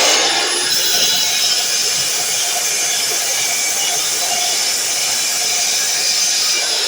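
DeWalt miter saw running, a loud, steady hissing whir.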